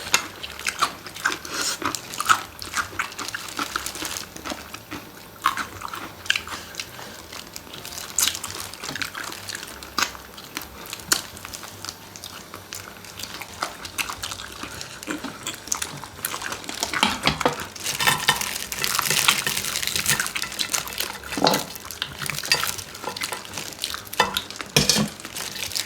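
Close-miked mukbang eating sounds from spicy chicken feet and fried chicken: chewing with frequent short clicks and clinks of utensils and dishes, and a louder stretch about two-thirds of the way in.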